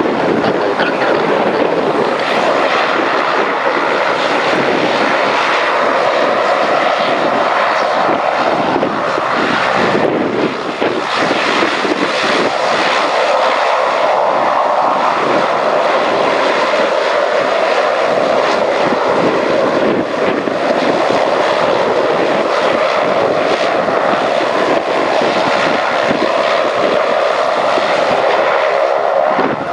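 Saab 340 turboprop's two General Electric CT7 engines and propellers running with a loud, continuous drone, its pitch wavering slightly.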